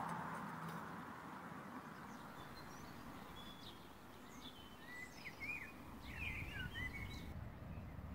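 Birds chirping, a run of short quick calls through the middle and latter part, over steady outdoor background noise with a low rumble.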